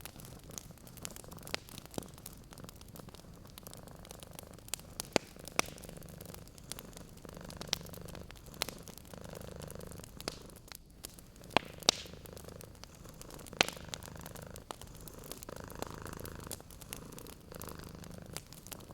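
A domestic cat purring in slow, regular swells, one with each breath, over a wood fire crackling with scattered sharp pops. The loudest pops come a little past the middle.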